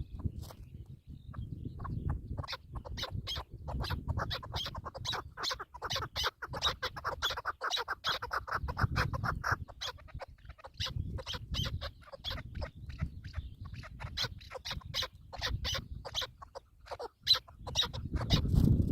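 Partridges calling in rapid runs of short clucking notes, repeated many times a second, with a low rumble underneath.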